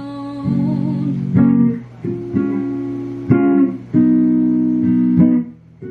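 Acoustic guitar strumming chords as accompaniment to a slow soul song, about seven strokes with ringing notes between them, the last chord damped near the end.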